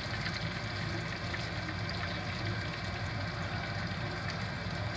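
Hot cooking oil sizzling steadily in a skillet, the frying grease still bubbling as lobster pieces are lifted out.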